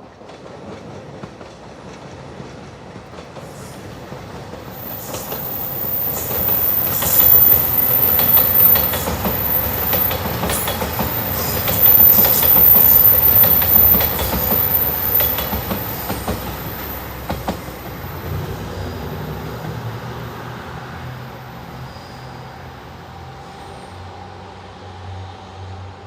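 A JR 2700 series diesel limited express train passing at speed, wheels clattering over the rail joints with a thin high squeal. It builds up over the first few seconds, is loudest in the middle, and fades away over the last ten seconds or so.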